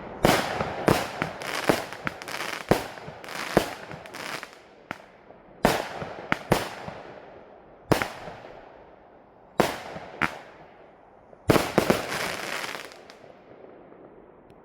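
Fireworks going off: a quick run of bangs, then single bangs every second or two and another quick cluster near the end, each bang trailing off in an echo.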